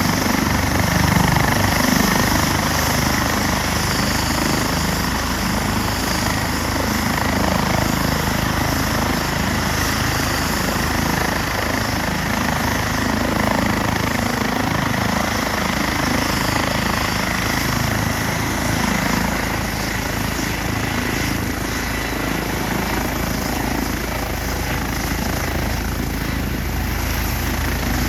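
Eurocopter EC135 twin-turbine helicopter running steadily, turbine whine over the low beat of the rotor.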